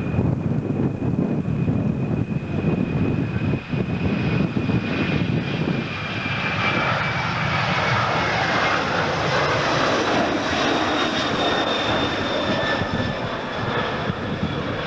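Airliner engines passing close, with a steady whine that slides slowly down in pitch. About six seconds in, a loud rushing roar builds up under the whine.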